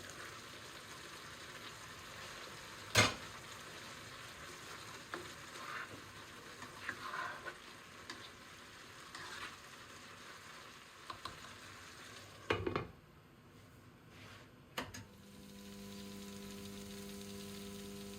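Food sizzling as it fries in hot oil in a pan, with a sharp knock of a utensil or pan about three seconds in and a few more knocks later. Near the end the sizzle gives way to a steady humming drone, like a kitchen appliance running.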